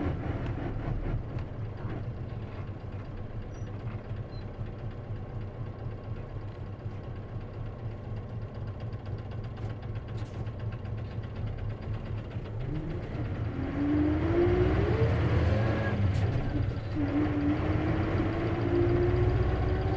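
Isuzu KC-LV380N manual-transmission city bus running low at first, then pulling away: its engine and drivetrain grow louder from about twelve seconds in. A whine rises in pitch with speed, breaks off briefly at what sounds like a gear change, then rises again. The bus has an abnormal noise that the uploader suspects can occur on manual-transmission buses.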